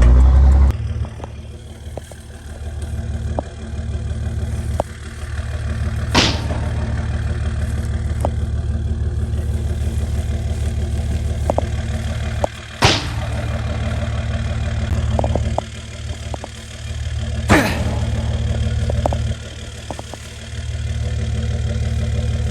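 A vehicle engine runs steadily with a low drone, easing off and coming back up several times as the vehicle drives, heard from inside the cab. Four brief sharp whooshes cut across it, spaced several seconds apart.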